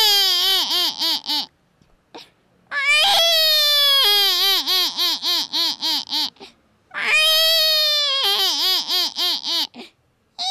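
A woman's vocal imitation of a human baby crying: three cries, each a long high wail that breaks into rapid quavering sobs, about five a second.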